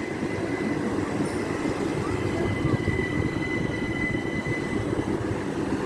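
Passenger train running along the track, a steady rumble of wheels and motors with a thin high whine that fades out near the end.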